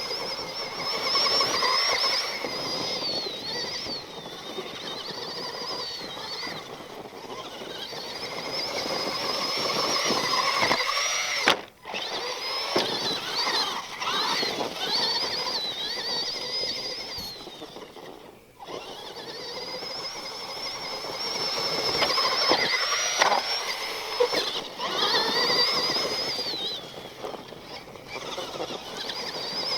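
Axial SMT10 Grave Digger RC monster truck's brushed electric motor and metal-gear transmission whining, its pitch rising and falling with the throttle, over the noise of the truck driving. The sound cuts out abruptly twice.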